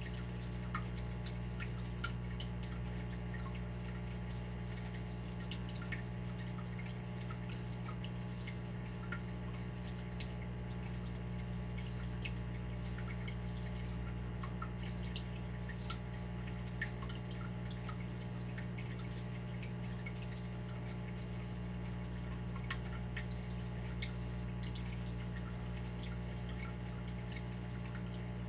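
Water dripping in irregular small drops, a few a second, over a steady low rumble.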